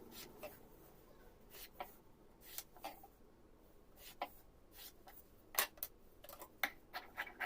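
Fabric and tailoring tools being handled on a work surface: scattered, irregular light clicks and rubbing, with one louder knock a little past the middle.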